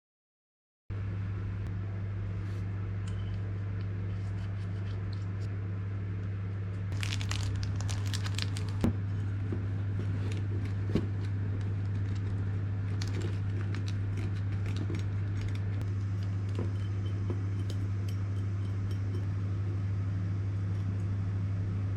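A steady low hum, joined from about seven seconds in by scattered light clicks and crinkly rustling, with one sharper click a couple of seconds later.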